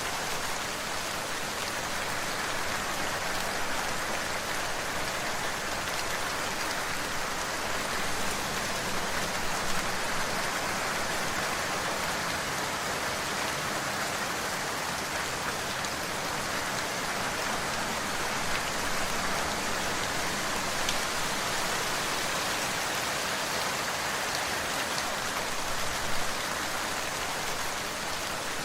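Steady rain falling on a surface, an even hiss with the occasional louder drop.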